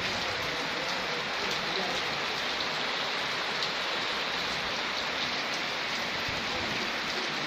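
Heavy rain falling steadily, a dense even hiss of drops on surfaces with scattered individual drop ticks.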